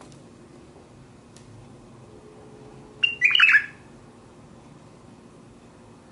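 White-eared bulbul giving one short burst of quick calls about three seconds in, lasting under a second.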